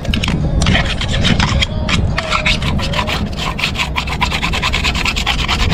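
Quick back-and-forth scraping strokes of a hand tool rubbing on a surface, several a second and closer together from about two seconds in, over a steady low hum.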